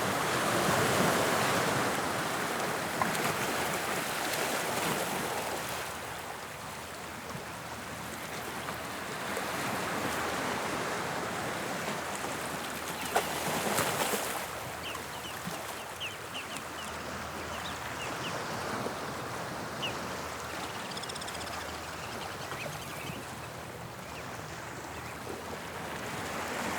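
Waves breaking and washing on the English Channel shore, a steady rushing surf that swells and eases in several surges with quieter lulls between them.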